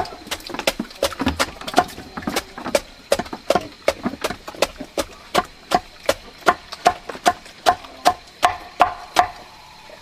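Banana stalk being chopped fine by hand with a blade for animal feed: a steady run of sharp chopping strikes, about two to three a second, stopping about nine seconds in.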